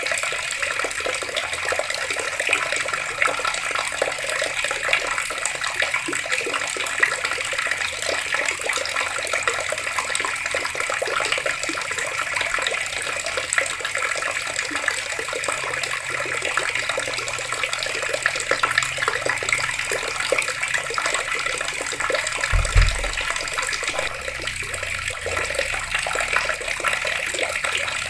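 Water taps running steadily, the water splashing without a break. A short low thump comes about three-quarters of the way through.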